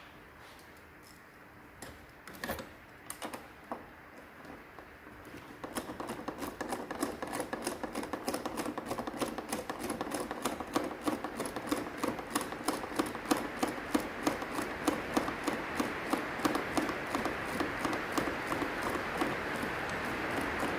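A few separate knocks, then from about six seconds in a fast, steady run of mechanical clicks, several a second, with a hiss building underneath toward the end.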